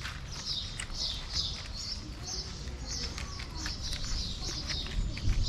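Small birds chirping over and over, several high, short chirps a second, with scattered clicks and a low rumble underneath.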